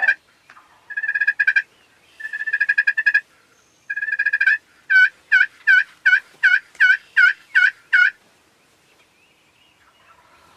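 Wild turkey calling: three short, rapid rattling series, then a steady run of eight yelps, each note falling in pitch.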